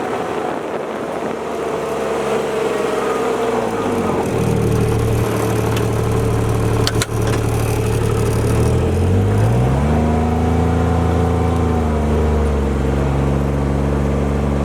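Motor vehicle engine running on the move. Its pitch falls about four seconds in and climbs again around nine to ten seconds, like easing off and accelerating through the gears. There is a single click about halfway through.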